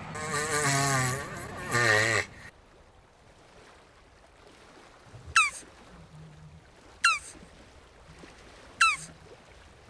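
A jabuti tortoise's drawn-out, wavering call for about the first two seconds. This is followed by three short, sharp falling whistles spaced a little under two seconds apart.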